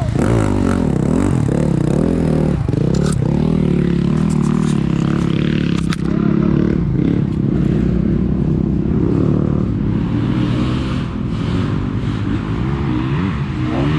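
Dirt bike engine revving up and down under throttle while riding, with a few sharp knocks, the clearest about six seconds in.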